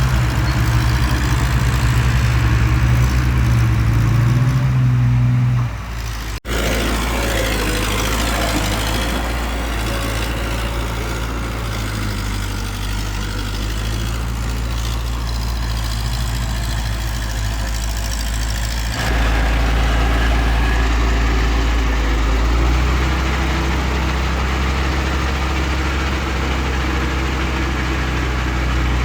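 Heavy diesel engines of earthmoving machinery running steadily with a deep drone, in separate stretches that change abruptly twice, about six seconds in and about nineteen seconds in.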